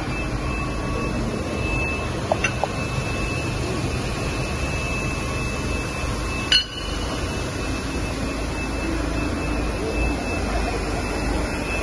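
Steady machinery noise of a rubber extrusion and microwave vulcanization line, with a faint high whine, a few light clicks a little over two seconds in and one sharp click about six and a half seconds in.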